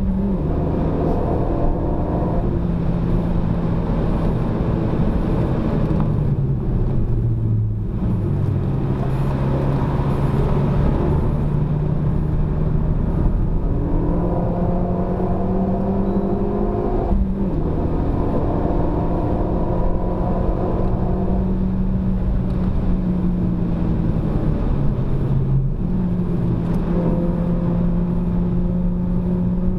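Renault Mégane RS250's 2.0-litre turbocharged four-cylinder engine, heard from inside the cabin, pulling hard through the gears on track. Pitch drops sharply at upshifts at the start and about 17 seconds in, and falls away off the throttle about 8 seconds in before climbing again.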